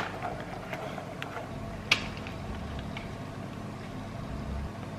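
Kitchen handling sounds: a few light clicks and a sharp knock about two seconds in, as of a bowl and utensils being handled, over a steady low hum.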